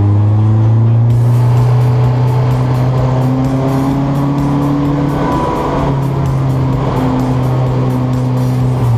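1993 Volkswagen Fox race car's four-cylinder engine running hard under load, heard from inside the stripped cabin. Its pitch climbs a little at the start, holds steady, and dips briefly about halfway through.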